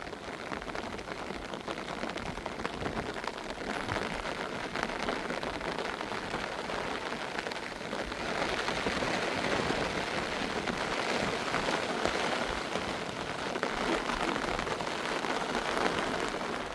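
Rain falling steadily, growing heavier about halfway through.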